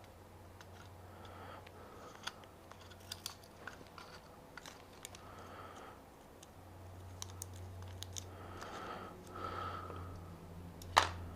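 Scattered small clicks and crackles of hands handling plastic parts of an e-bike light-and-alarm kit during fitting, with one sharp, louder click near the end.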